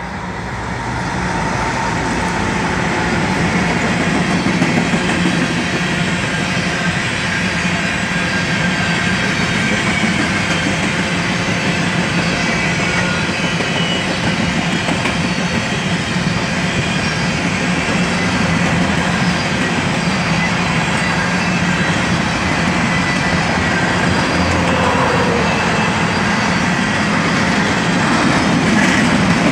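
BNSF freight train passing close by on the near track. The sound builds over the first few seconds as the diesel locomotive arrives, then a long string of covered hopper cars rolls past with a steady rumble of wheels on rail.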